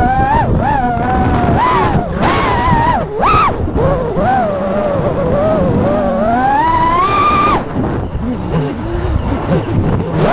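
5-inch FPV quadcopter's brushless motors whining, the pitch sliding up and down constantly with the throttle. A long climb in pitch peaks about seven and a half seconds in, then drops sharply as the throttle comes off, over a low rumble.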